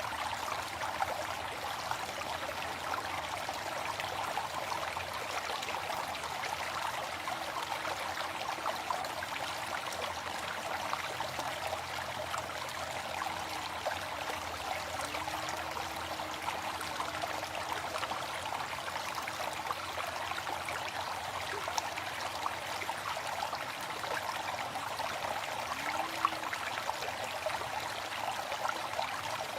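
Waterfall: a steady rush of falling water with a fine splashing crackle, even and unchanging throughout.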